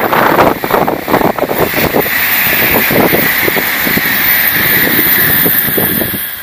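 N700A Shinkansen bullet train passing at high speed without stopping: a loud rush of air and running noise with rapid irregular pulsing, dropping away near the end as the train clears.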